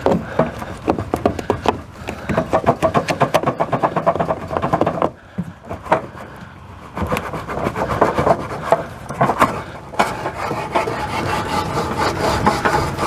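Metal furnace access cover being worked off, with rapid scraping, rubbing and rattling that pauses about five seconds in and then starts again.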